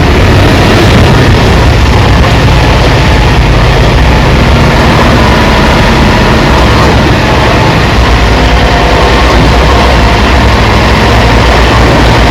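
Heavy earthmoving machine's engine running steadily and loud, with a deep rumble and a few faint steady whines over it.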